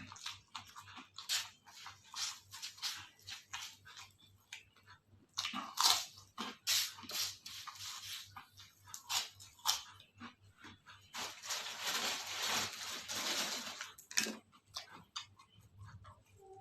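A person biting and chewing crisp food, with a run of quick, separate crunches. About eleven seconds in these thicken into dense, continuous crunching that lasts about three seconds.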